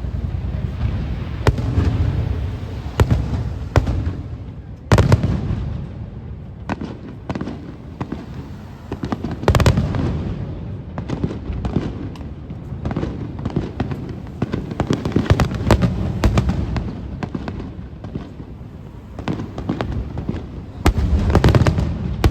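Aerial fireworks shells bursting in a rapid series: many sharp bangs, some in quick clusters, over a rolling low rumble of booms.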